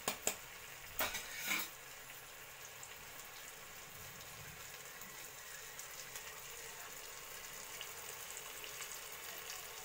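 Anchovies frying in oil and masala in a clay pot, a steady sizzle with faint crackle. A metal ladle clicks and scrapes against the pot a few times in the first second and a half.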